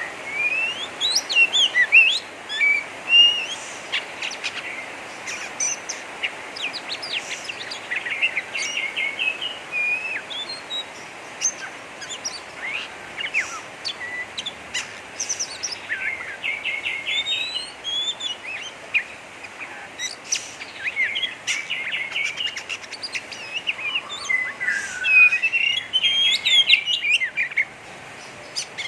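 Oriental magpie-robin singing a rough, rapid chattering 'ngeriwik' song: bursts of quick chirps, short trills and varied whistled notes, over a steady background hiss.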